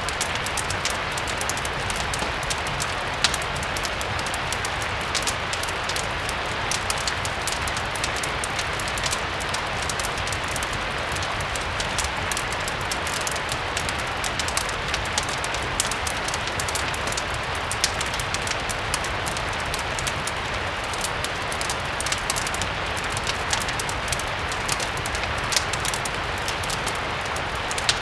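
Steady rain hiss with a low rumble underneath, dotted with frequent small, sharp crackles from a fireplace mixed in.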